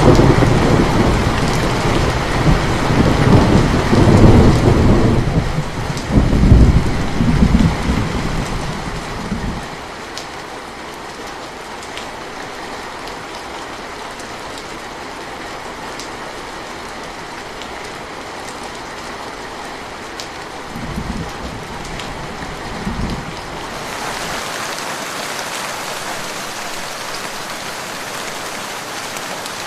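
Steady rain falling, with thunder rumbling heavily over the first nine seconds or so and two shorter, fainter rumbles a little after the middle. About four-fifths of the way through the rain changes to a brighter, hissier sound with no low rumble.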